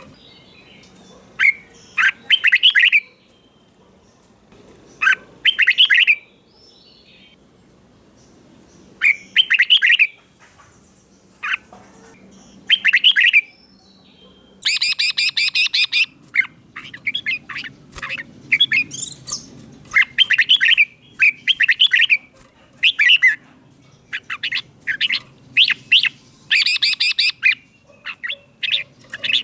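Red-whiskered bulbul singing: short, quick whistled phrases, one after another with brief gaps, coming faster and closer together from about halfway through.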